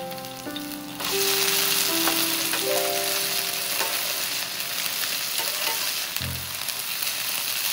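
Shredded potato and bacon pancake sizzling in oil in a frying pan, the sizzle jumping louder about a second in, while a metal spatula scrapes and turns it. A light melody plays over the first few seconds.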